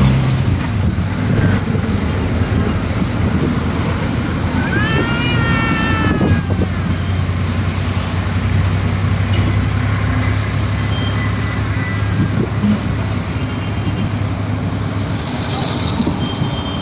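Street traffic in heavy rain: a vehicle engine running steadily under a constant hiss, with a brief tone that rises and falls about five seconds in.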